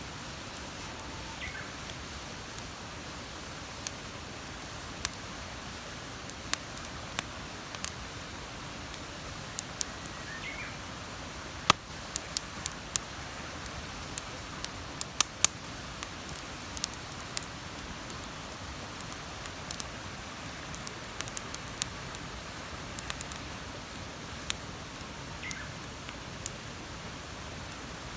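Wood fire crackling, with sharp pops at uneven intervals, over a steady rush of river water. A bird chirps faintly three times.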